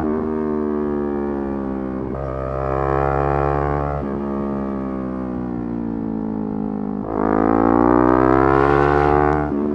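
Yamaha R3's parallel-twin engine running at high revs, its pitch easing down with brief dips at gear changes about two, four and seven seconds in. From about seven seconds in it climbs hard and is loudest, cut briefly by another shift near the end.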